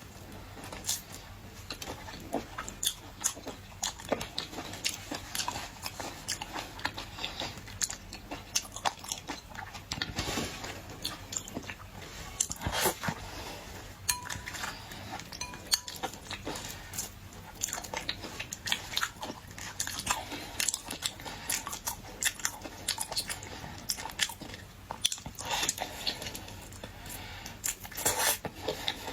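Close-miked eating of boiled shellfish: irregular crunching and chewing, with many sharp crackles and clicks.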